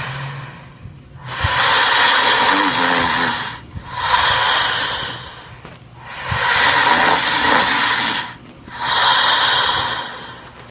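Cartoon snoring sound effect: four long, hissing breaths, each about two seconds long, with short pauses between them.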